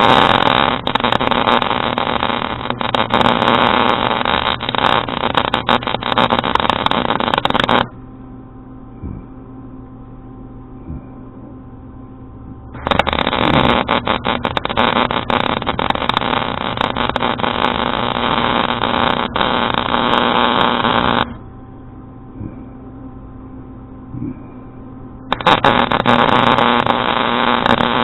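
Wire-feed welder arcing with a steady crackle in three runs: the first stops about eight seconds in, the second lasts about eight seconds, and the third starts a few seconds before the end. Between runs the welding machine's quieter steady hum is heard.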